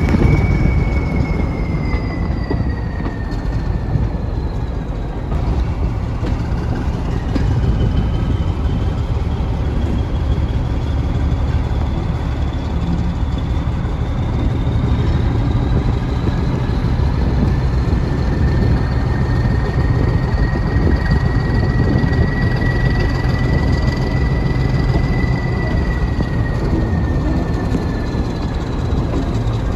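Steam-hauled heritage passenger coaches running along the track: a steady low rumble from the wheels, with a high squeal from the wheel flanges on a curve. The squeal slides slowly in pitch, fades over the first few seconds and comes back for much of the second half.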